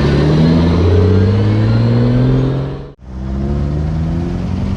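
A classic rally car's engine accelerating away, its pitch rising steadily. About three seconds in the sound cuts out abruptly, then an engine is heard again, rising in pitch.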